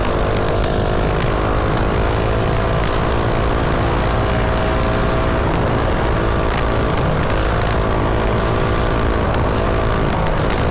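Mini bike's small engine running steadily under way, its pitch shifting slightly as the throttle changes, with heavy wind rumble on the rider's chin-mounted helmet camera.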